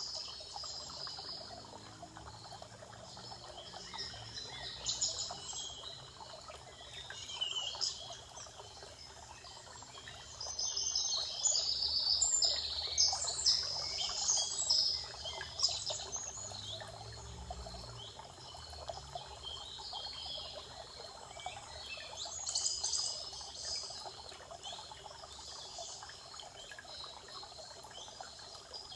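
Several songbirds singing and chirping in a spring forest over a steady background hiss, the birdsong busiest and loudest for several seconds in the middle.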